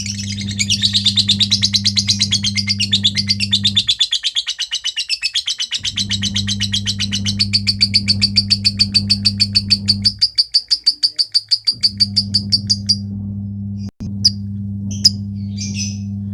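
Lovebird singing a long, rapid, unbroken chattering trill, the continuous 'ngekek' that Indonesian keepers call konslet, for about thirteen seconds before breaking into a few short separate chirps. A low steady hum starts and stops beneath it.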